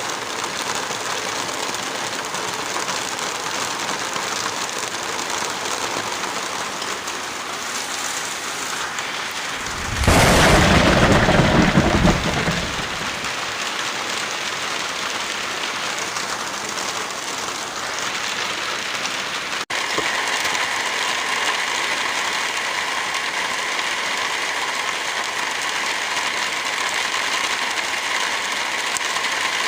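Steady heavy rain falling. About ten seconds in, a loud low rumble lasts for about two seconds, and about two-thirds of the way through, the rain's sound changes abruptly to a brighter hiss.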